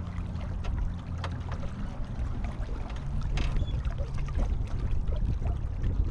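Small sailboat under way: water splashing and slapping against the hull in scattered short hits over a low steady rumble.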